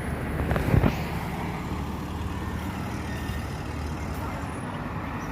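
Street traffic: a steady low vehicle rumble, with a brief loud burst of noise just under a second in.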